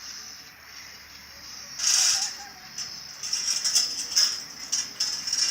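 Irregular metallic rattling, as of a hand chain hoist's chain being hauled to raise the stage rig: one strong burst about two seconds in, then a run of uneven rattles.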